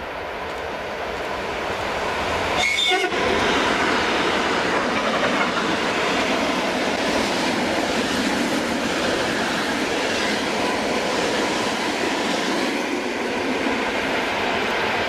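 An ED2T electric multiple unit passing close by at speed, its rolling noise building over the first three seconds and then holding steady, with wheels clacking over rail joints. A brief high tone sounds about three seconds in.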